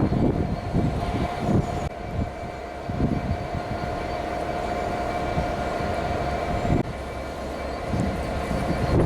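A train running past, with a steady rumble, a steady whine and irregular knocks from the wheels on the rails.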